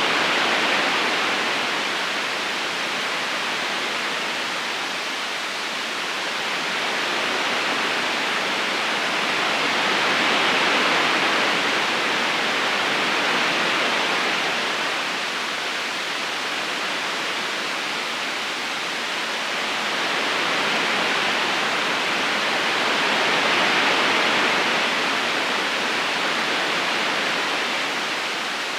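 River water flowing steadily, its level gently swelling and easing every few seconds.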